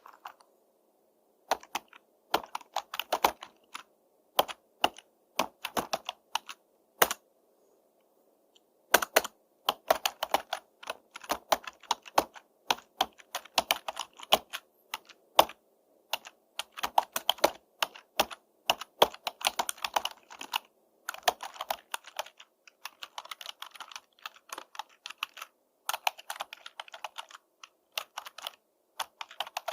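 Typing on a computer keyboard: irregular runs of quick keystroke clicks with short pauses between them, including a silent gap of about a second before the typing picks up again.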